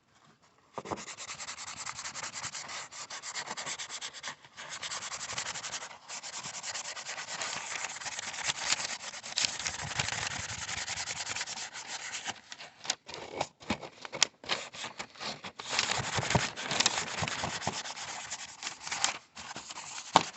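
Abrasive scouring pad scrubbing weathered dirt bike plastic, wet with a boiled linseed oil and paint thinner mix: a steady scratchy rubbing that starts about a second in, with short pauses between strokes that come more often in the middle.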